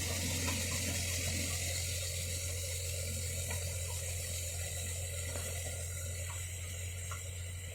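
Mahindra Yuvo 575 DI tractor's four-cylinder diesel engine running steadily under a strong even hiss, slowly fading.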